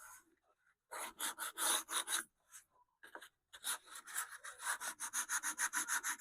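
Hand sanding the stripped wooden top of a Philco Model 70 radio cabinet: sandpaper rubbing back and forth over the wood. A few strokes come about a second in, then after a short pause a steady run of about five quick strokes a second.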